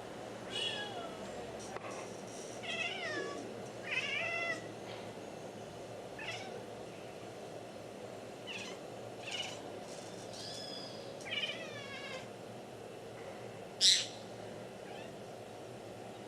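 A Bengal cat meowing about four times, each call falling in pitch, while small birds give short high chirps, the loudest near the end.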